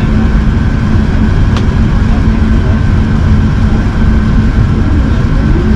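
Steady, loud cabin noise inside an Airbus A380: a constant rush of engines and airflow with a steady hum, and a single faint click about a second and a half in.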